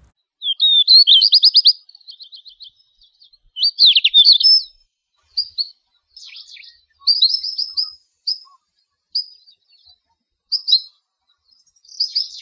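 Songbird singing: a run of short, high phrases of rapidly repeated notes with pauses between them, loudest about a second in and again around four seconds in.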